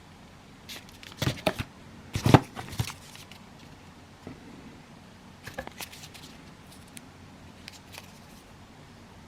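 Cardboard fireworks and packaging being handled and set down: bursts of short knocks and clatters, loudest about two seconds in, with smaller clusters about a second in, near six seconds and near eight seconds.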